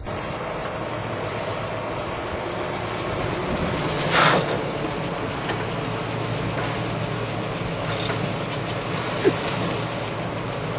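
A car's engine running steadily with road noise, and a short loud hiss about four seconds in.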